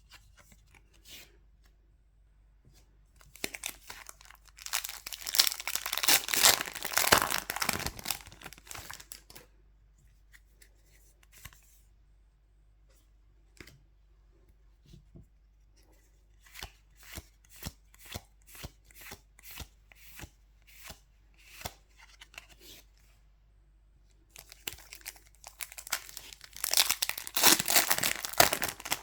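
Foil booster pack wrappers being torn open and crinkled, twice, with a run of short, evenly spaced ticks in between.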